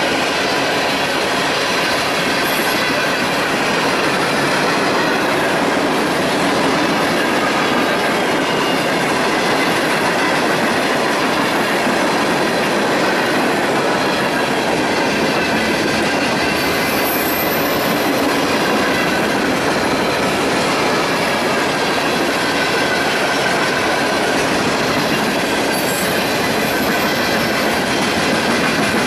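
Railroad cars rolling steadily past, wheels clacking over the rail joints, with a faint wheel squeal.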